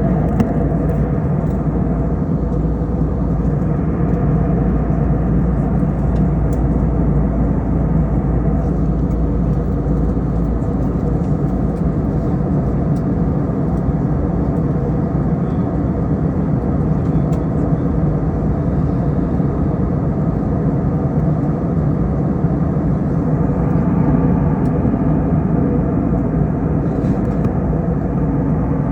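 Airbus A321 cabin noise in flight: a steady drone of engines and rushing air, with a deep rumble and a constant hum.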